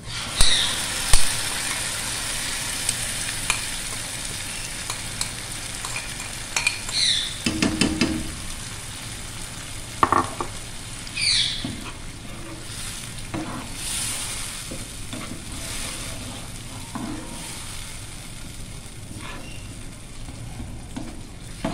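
Sliced onions sizzling as they fry in oil in a metal pot while a wet tomato and green chilli masala paste is added and stirred in with a spoon. There is a steady frying hiss, with sharp knocks about a second in and spoon scrapes against the pot now and then.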